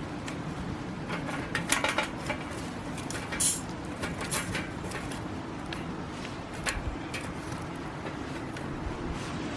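A few light metallic clinks and knocks, spaced a second or more apart, over a steady low background noise: metal cookware or fire-pit hardware being handled.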